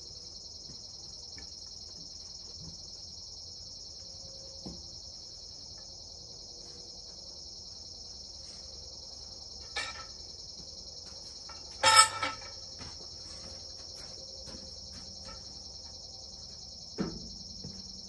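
Steady, high-pitched chorus of crickets singing at night. A few scattered knocks break in, the loudest a ringing clank about twelve seconds in.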